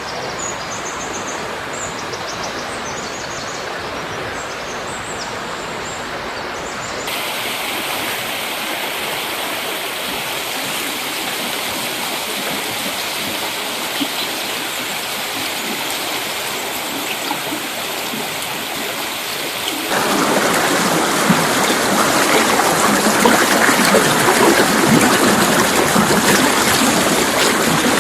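Mountain river rushing and splashing steadily over rocks. The sound changes abruptly about a quarter of the way in, and again about two-thirds of the way in, where it turns louder and fuller.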